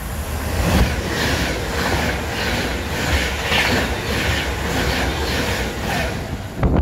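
Avanti West Coast Class 390 Pendolino electric train passing close at speed: a loud rush of wheel and air noise with a regular clatter of about two to three beats a second. It cuts off suddenly near the end.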